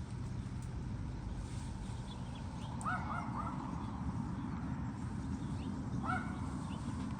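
Short, arched animal calls: three in quick succession about three seconds in and one more near six seconds, over a steady low rumbling noise.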